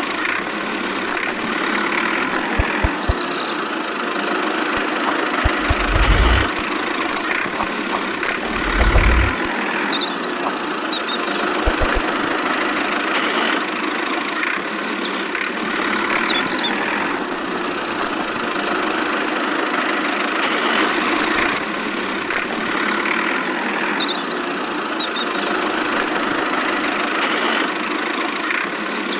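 A small motor running steadily, with a few short low thumps about three, six and nine seconds in.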